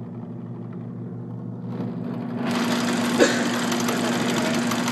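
Slick aircraft magneto spinning on a motor-driven test stand, a steady mechanical hum. About two seconds in it grows louder and fuller, with a dense crackle as the test run picks up, and one sharp snap just past three seconds.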